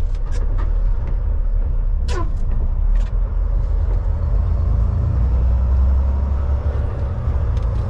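Semi truck's diesel engine running in low gear, a steady low rumble heard from inside the cab, with a few sharp clicks and a short falling squeak about two seconds in.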